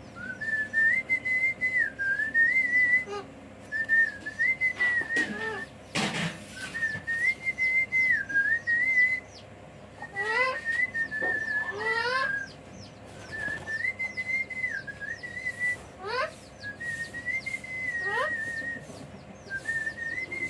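A short whistled tune, repeated about seven times with brief pauses between. Quick rising squeaky glides come in among the later phrases, and there is one sharp click about six seconds in.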